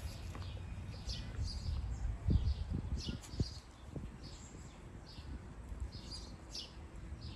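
Small birds chirping, short high chirps repeating about once or twice a second, with a few soft low thumps a couple of seconds in.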